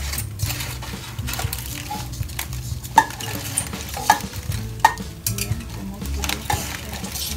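Whole chicken sizzling in its own juices in a foil tray inside a heavy wok, cooked dry without water. There is a steady frying hiss, and a few sharp metal clinks near the middle.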